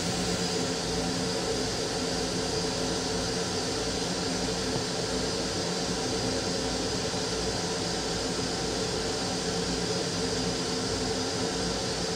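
Steady running noise of an M7 electric railcar heard from inside its small restroom: a low rumble and hum with a few steady tones under an even hiss.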